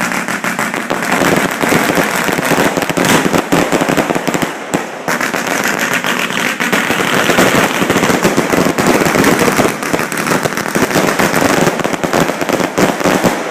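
A dense fireworks barrage heard from close to the launch site: many bangs and bursts overlapping with no break, apart from a short lull about five seconds in.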